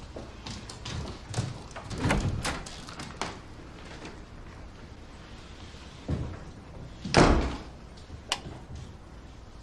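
Door handling: a string of knocks and latch clicks over the first few seconds, then a door shut with a thud about seven seconds in and a sharp latch click just after.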